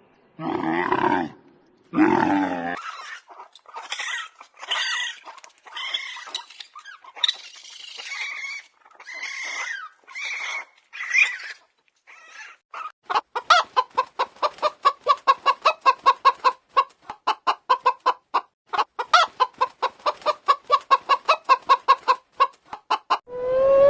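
A run of animal calls. Two low calls open it, then a string of higher pitched calls about once a second. Over the second half comes a fast, even clucking of about four or five short calls a second.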